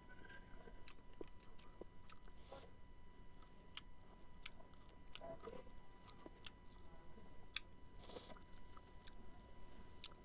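A person chewing and biting food close to the microphone: faint wet mouth clicks and smacks, with a few louder bites about two and a half, five and eight seconds in.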